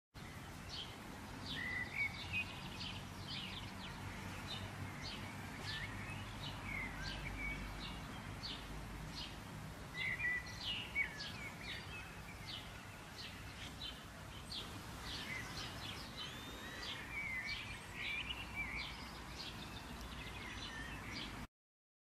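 Several small songbirds chirping and singing in quick, overlapping short calls and warbled phrases, over a steady low outdoor background rumble. It cuts off abruptly near the end.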